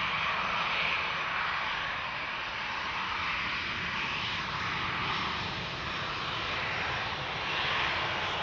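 Boeing 737-800's CFM56-7B jet engines at low taxi thrust as the airliner backtracks along the runway: a steady rush of engine noise that swells and eases slightly.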